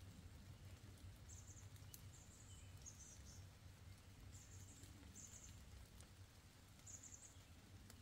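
Near silence: a faint low rumble with a small bird's short, very high, rapid trills repeated about six times, and a couple of faint ticks.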